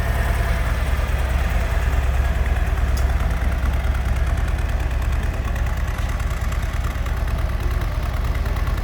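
Harley-Davidson Street Glide's V-twin engine idling steadily, with one brief click about three seconds in.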